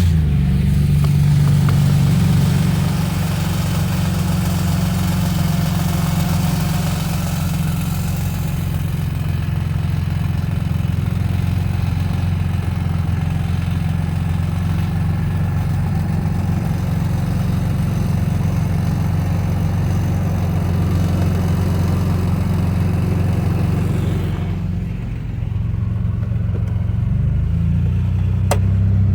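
Engine running steadily at low speed, a deep even note that shifts about 25 seconds in.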